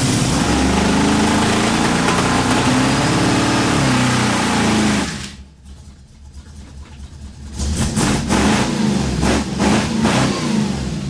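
1966 Ford F100 pickup's engine revved hard, with a long rev that climbs and falls back over about five seconds before dropping off suddenly. A second burst of revving follows a couple of seconds later.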